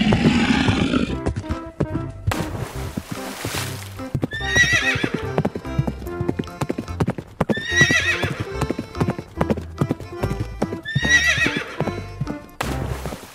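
Sound-effect horse neighing three times, about three seconds apart, with clip-clop hoofbeats, over background music with a steady beat. A louder call with gliding pitch in the first second, and a rushing hiss around two seconds in and again near the end.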